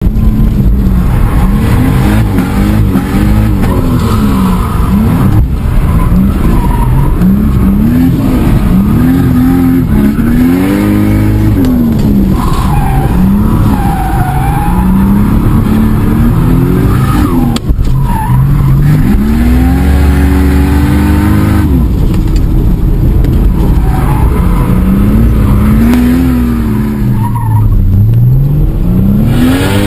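A turbocharged drift car's engine, heard loud from inside the cabin, revving up and falling back again and again as it is driven hard through corners, with tyres squealing.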